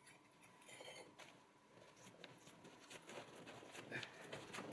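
Near silence, with faint scattered clicks and light scraping that grow a little louder towards the end.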